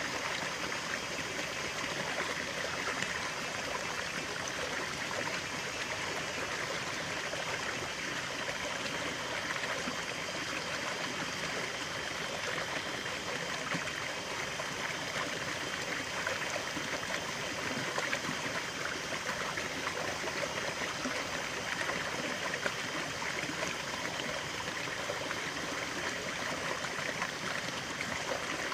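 Natural stream running steadily over rocks with a constant rushing and trickling.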